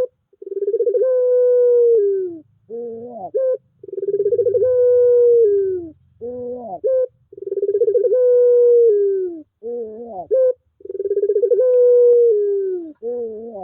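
Puter pelung dove cooing: long, slightly falling coos, each led by a short rising note, repeated about four times.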